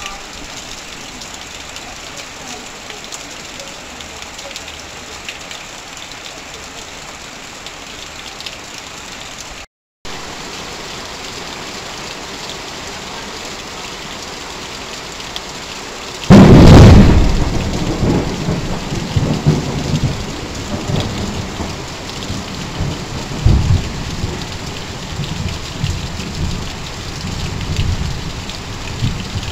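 Heavy rain falling steadily on corrugated metal roofing, with runoff pouring off the roof edge. A bit past halfway a loud thunderclap breaks in and rumbles on for several seconds, with further rolls of thunder near the end.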